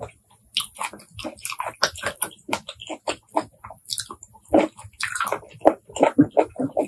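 Close-miked wet chewing and lip smacking of cooked apple snail meat, with quick irregular chews that grow louder in the second half.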